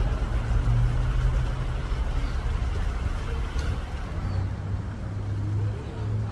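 Steady low drone of a motor vehicle's engine and road noise while driving, holding even throughout.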